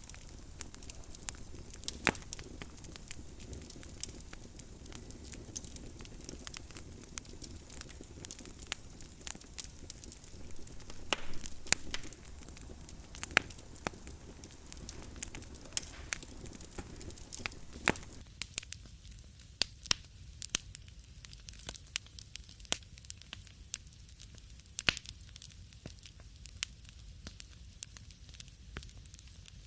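Wood fire crackling in a fireplace: irregular sharp pops and snaps over a steady low hiss. About two-thirds of the way through, the background hiss thins while the crackling goes on.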